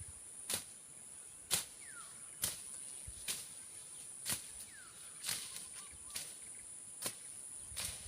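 Machete slashing through brush in steady strokes, one sharp strike about every second, over a steady high-pitched insect drone.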